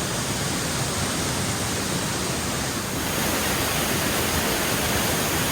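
Small mountain waterfall pouring close by: a steady rush of falling water that grows slightly louder and brighter about three seconds in.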